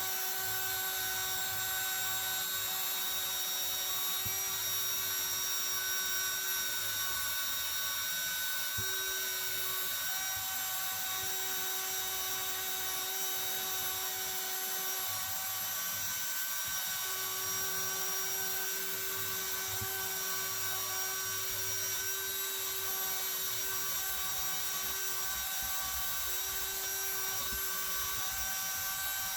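Power tool spinning a wire wheel against the rusty metal of an antique ice claw: a steady motor tone over a hiss, dipping briefly every few seconds as the wheel is pressed into the metal.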